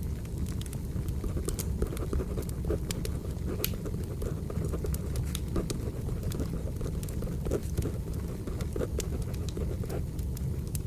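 Wood fire burning: a steady low rumble with many sharp, irregular crackles and pops.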